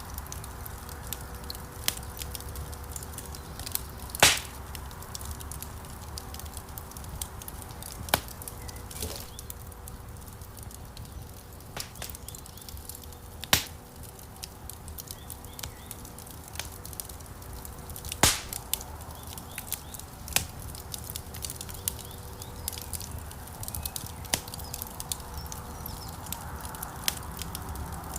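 Wood fire crackling, with a low steady rumble of flames and scattered sharp pops; the loudest pops come about four seconds in, around thirteen and a half seconds, and around eighteen seconds.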